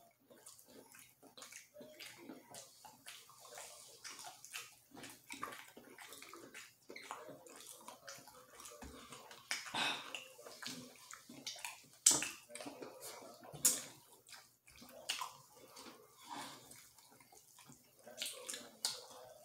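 Close-up eating sounds of fried chicken: wet chewing and lip-smacking with many small irregular clicks and crackles from bites and meat being pulled apart, and two sharper, louder snaps about twelve and thirteen and a half seconds in.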